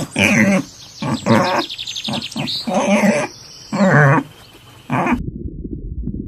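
An animal calling, about five short pitched calls roughly a second apart, with faint quick high chirps among them; from about five seconds in a low rumble takes over.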